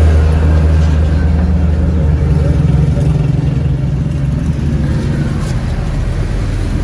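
A truck engine running steadily with a low hum that eases slightly in level.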